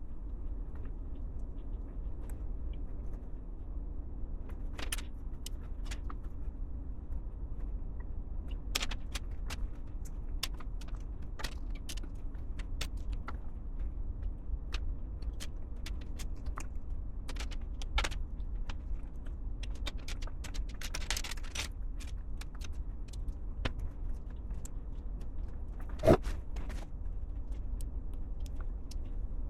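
Plastic LEGO pieces clicking and rattling as they are handled and pressed together, in scattered sharp clicks with one louder snap near the end. A steady low hum runs underneath.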